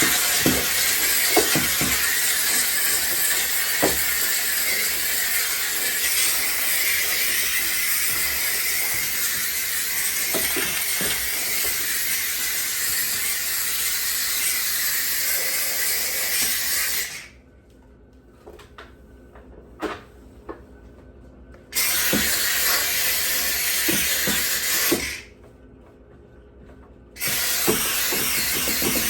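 McCulloch steam cleaner's nozzle jetting steam with a steady hiss for about seventeen seconds, then cutting off. Two shorter blasts of about three seconds each follow, with a few light clicks in the pauses between them.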